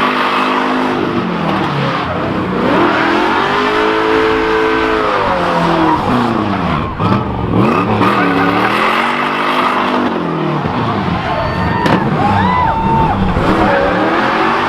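Car engine doing a burnout, revved hard and let fall about five times, with the spinning rear tyres squealing and hissing against the pavement.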